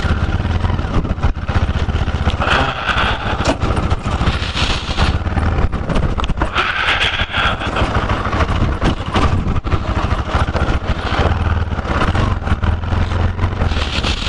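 Single-cylinder motorcycle engine running steadily while the bike rolls along at low speed, a continuous rumble with rapid pulsing.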